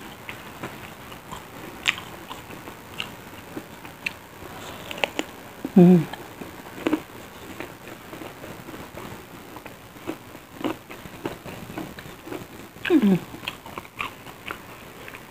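A person biting and chewing crispy fried tempe mendoan close to the microphone: irregular crunchy clicks. Two louder short sounds with a falling pitch, from the eater's voice, come about six and thirteen seconds in.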